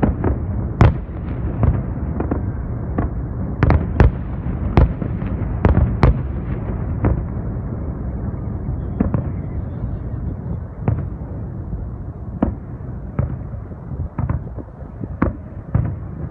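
Fireworks display: a rapid series of aerial shell bursts, sharp bangs over a constant low rumble of further explosions. The bangs come thick and fast in the first half, then thin out to single reports every second or so.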